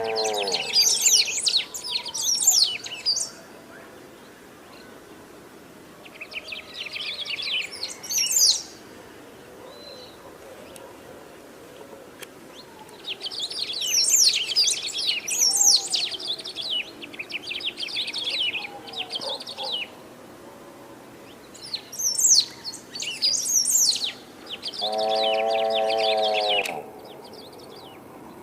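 Pampa finch (sabiá-do-banhado) singing: four bursts of rapid, high chattering notes separated by pauses of a few seconds. Near the end a lower, nasal-sounding call with a stack of harmonics runs for about two seconds alongside the song.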